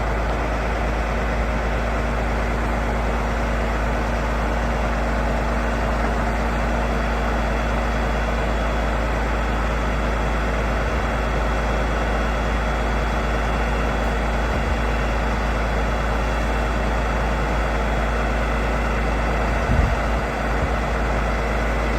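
A heavy truck engine running steadily, with a constant deep rumble and a faint steady whine over it.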